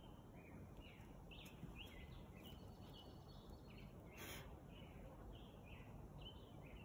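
Quiet forest ambience: small birds chirping again and again, short high chirps a few times a second over a faint steady hiss. A brief scuff about four seconds in.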